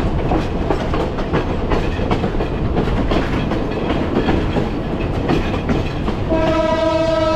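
Sri Lanka Railways passenger train running, with a steady rumble and wheels clattering over the rail joints. About six seconds in, the train's horn starts one long, steady note that is still sounding at the end.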